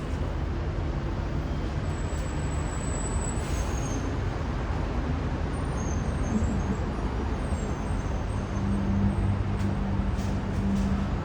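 Street traffic: a steady rush of passing vehicles, with a brief high squeal about two seconds in. A heavier vehicle's low engine hum grows louder about eight seconds in.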